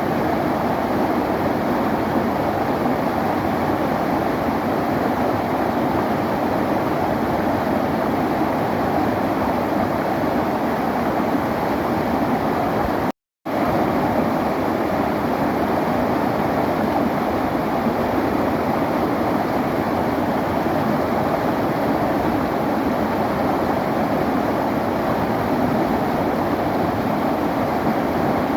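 Clear river flowing: a steady rush of water. About halfway through it cuts out to silence for about a third of a second, then carries on.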